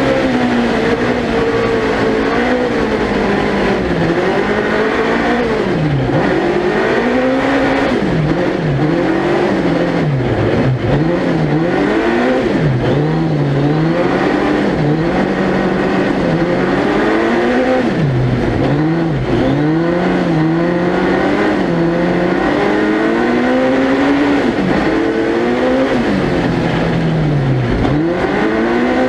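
Suzuki Hayabusa 1300cc four-cylinder motorcycle engine in a four-wheel-drive ice-racing prototype, heard onboard, revving hard and dropping off over and over as the car is driven through the corners of an ice circuit.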